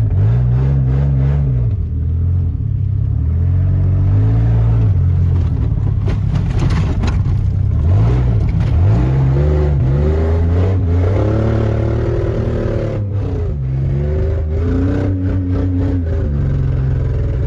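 2004 Dodge Dakota pickup's engine being revved hard while driven, its pitch climbing and dropping again several times as it is pushed through the revs.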